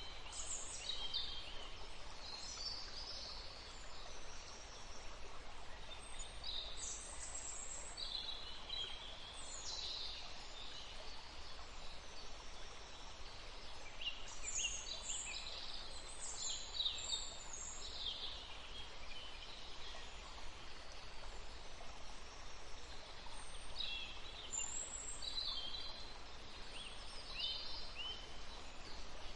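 Forest stream flowing steadily, with small songbirds singing quick high chirps in bouts throughout.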